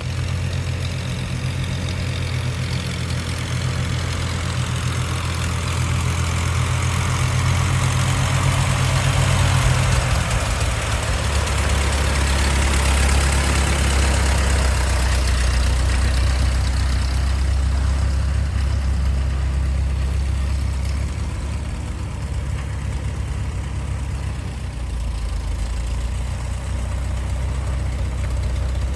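Tractor engine running steadily; its low note drops about ten seconds in and stays lower.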